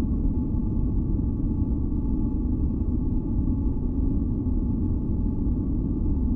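Steady, deep noise, heaviest in the low end like brown noise, with faint held tones above it; it does not change at all.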